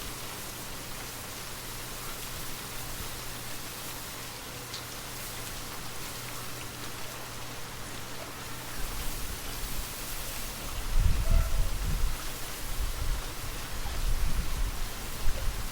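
Steady rain falling as an even hiss. About halfway through a low rumble comes in, loudest a little past two-thirds of the way, and then again near the end.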